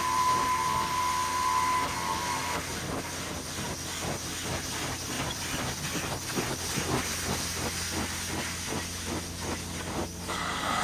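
Vacuum running with a steady hiss and a high whine that drops out about two and a half seconds in, after which rapid irregular clicks and crackles run through the noise.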